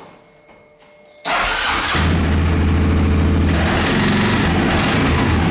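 CFMOTO ATV engine starting about a second in, then running at a steady idle. The heat protection on the exhaust is the suspected source of a weird noise.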